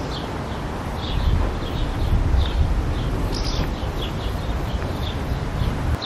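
Small birds chirping over and over in short high calls, against a low rumble of wind on the microphone.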